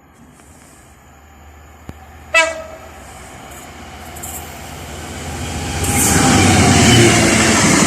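A train sounds one short horn blast about two and a half seconds in, then approaches and passes close by. Its rail noise builds and becomes loud and steady for the last couple of seconds.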